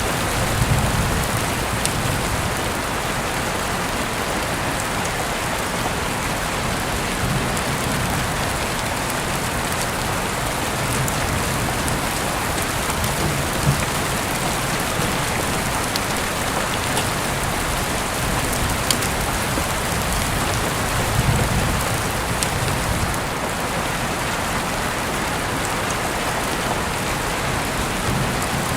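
Steady, dense rainfall with soft low rumbles of distant thunder swelling a few times, and a few sharp ticks, the loudest about fourteen seconds in.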